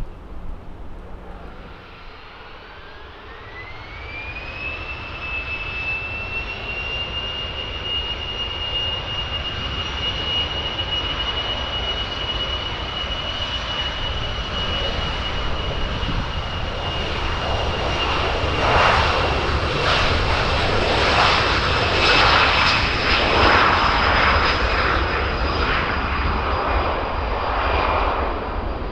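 Boeing 737-300's CFM56 jet engines spooling up for takeoff, a whine rising in pitch a couple of seconds in and then holding steady. The engine noise grows into a crackling rumble as the jet rolls and climbs past, loudest about two-thirds of the way through, then easing.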